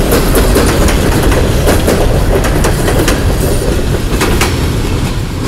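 Empty open-top coal cars of a freight train rolling past close by, steel wheels clacking irregularly over rail joints above a steady low rumble.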